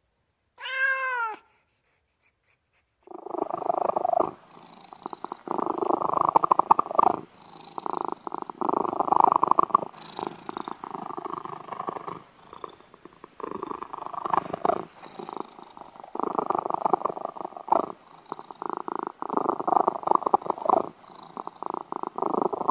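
A cat gives one short meow, then a domestic cat purrs close up, a rapid pulsing that starts about three seconds in and swells and fades with each breath every second or two.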